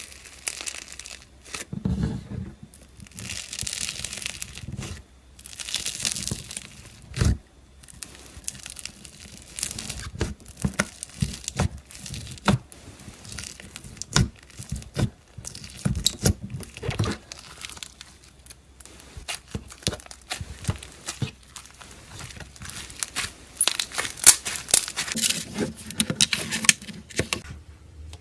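Slime being squished, stretched and poked by hand: an irregular run of sticky crackles, clicks and pops, with longer stretches of crinkly noise.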